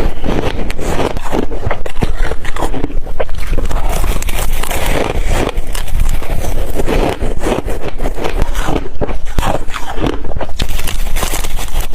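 Ice being chewed: loud, continuous crunching and cracking as the cubes break between the teeth.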